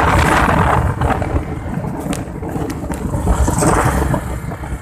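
Motorcycle running at riding speed, with road and wind noise; a rushing sound swells in the first second.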